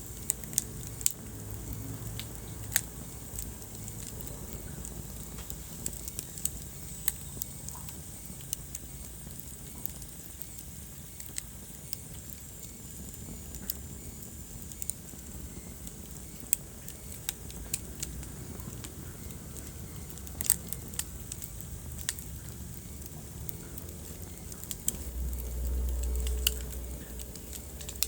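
Wood fire crackling in a fireplace: sharp, irregular pops and snaps over a steady low rumble of burning, which swells louder for a couple of seconds near the end.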